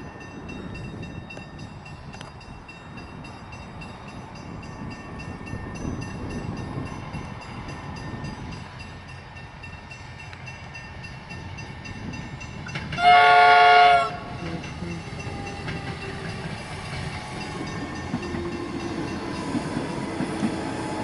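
Suburban train passing over a level crossing, its wheels rumbling steadily on the rails, with one loud horn blast of about a second a little past halfway.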